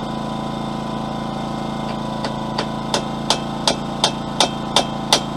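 Hammer blows on hot steel: a run of about nine strikes, about three a second, starting about two seconds in and growing louder. Under them, a generator engine runs steadily.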